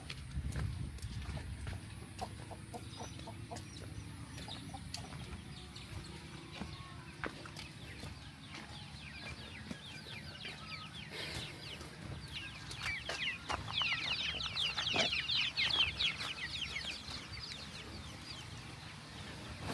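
Chickens clucking, with a run of quick, high, falling chirps from about twelve to seventeen seconds in.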